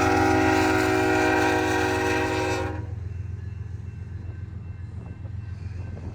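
Lead locomotive's air horn, on a BNSF GE ES44AC, sounding a steady multi-tone blast for the Main Street crossing that cuts off abruptly about three seconds in. A low steady rumble runs underneath throughout.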